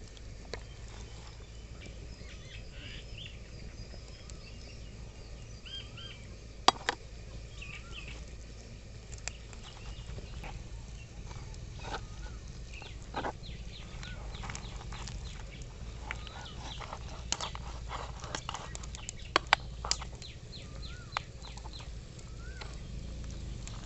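Birds calling in short chirps and clucks over a steady low rumble of wind. Scattered sharp knocks and clicks stand out, loudest about seven seconds in and twice close together near twenty seconds.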